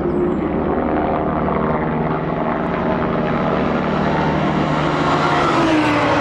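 Race car engines running hard past the track, a steady engine note that drops in pitch near the end as a car goes by.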